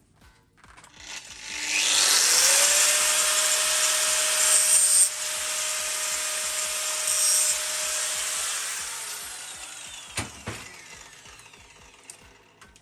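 Electric angle grinder spinning up about a second in and cutting sheet steel for the sill repair patches, with a steady motor whine under a loud hiss and two harsher bursts while the disc bites. It then winds down slowly, and two short knocks come near the end.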